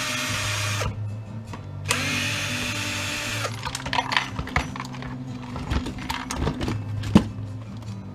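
Cordless drill backing screws out of a plastic housing in two short runs, each spinning up at the start, followed by clicks and knocks of parts being handled, with one sharper knock near the end.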